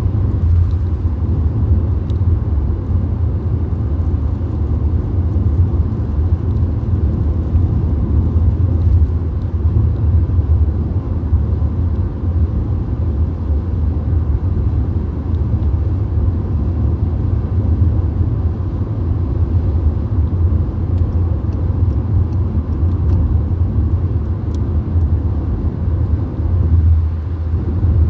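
Steady, deep rumble of tyre, road and engine noise inside a VW Golf's cabin while cruising on a motorway, unchanging throughout.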